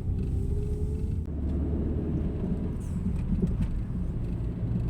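Car interior while driving: steady engine and road rumble, with a faint engine tone rising slightly in the first second or so.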